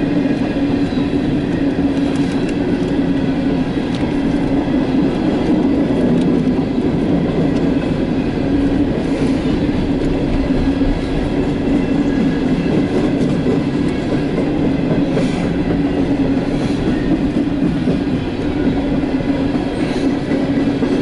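Empty CSX coal train rolling past close by: steel wheels on the rails make a loud, steady rumble with a humming tone and occasional faint clicks.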